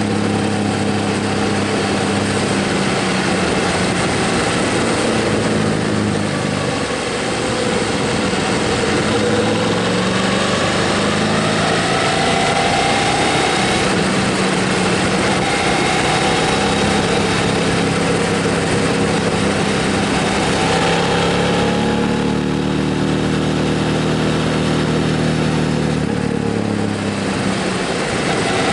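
Motorcycle engine running while riding, its pitch rising and falling several times with throttle and gear changes, over a steady rush of noise.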